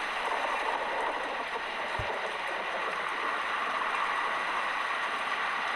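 A steady rushing noise, with a single soft low thump about two seconds in.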